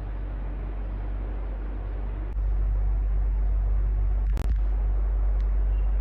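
Electric fan running steadily: a low hum under an airy rushing noise. About a third of the way in, the low hum steps up louder. About two-thirds of the way in, there is a brief click where the sound cuts out for an instant.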